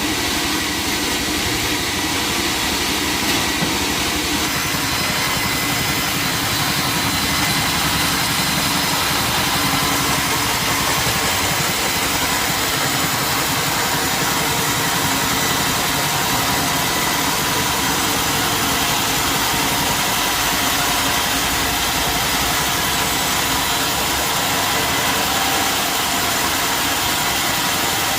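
Sawmill machinery running steadily: a loud, unbroken mechanical drone with a hiss on top.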